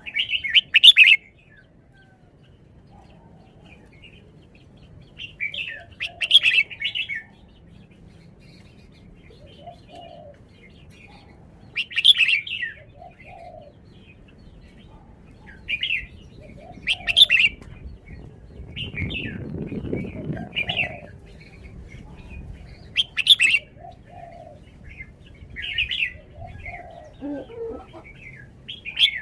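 Red-whiskered bulbul singing short, loud chirpy phrases every few seconds, with softer low notes between them.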